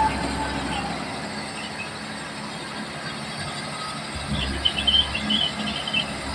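Komatsu D31P crawler dozer running, with high metallic squealing. Its low engine rumble eases about a second in and comes back near the end, with a run of short, chirping squeaks.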